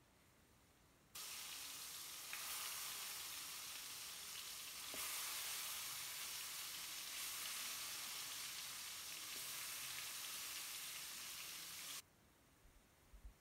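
Stuffed small brinjals sizzling in hot oil in a metal kadai, a dense frying hiss. It starts suddenly about a second in, gets louder twice, and cuts off sharply near the end, followed by a few faint bumps.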